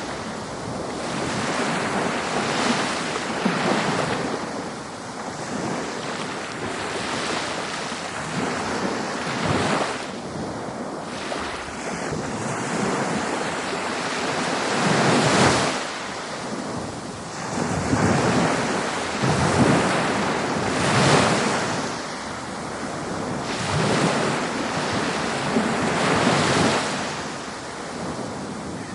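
Ocean waves breaking on a beach, the surf swelling and washing in again every few seconds over a steady rush of water.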